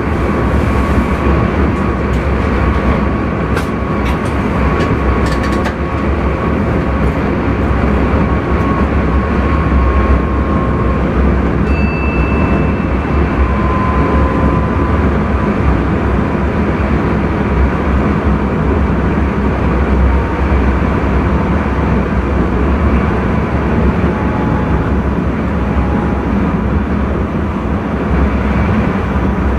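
Intercity train running along the track, heard inside the driver's cab as a steady rumble, with a brief high tone about twelve seconds in.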